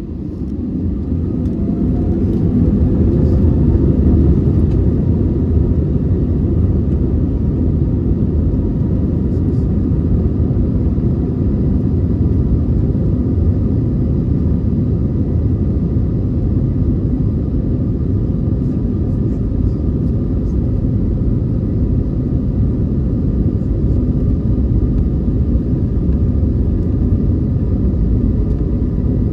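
Airbus A321neo's CFM LEAP-1A jet engines spooling up to takeoff thrust, heard from the cabin. A rising whine and a fast climb in loudness over the first few seconds settle into a steady, loud, low rumble.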